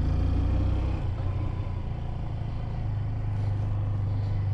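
Honda 125cc learner motorcycle's engine running steadily at low speed, a low hum with a rumble underneath.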